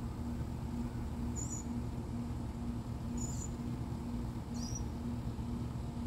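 Small songbird giving three short, high-pitched chirps spaced a second and a half to two seconds apart, over a steady low hum with a faint pulsing tone repeating a few times a second.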